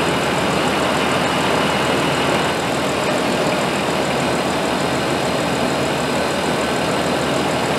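Car engine idling steadily, heard close up in the open engine bay.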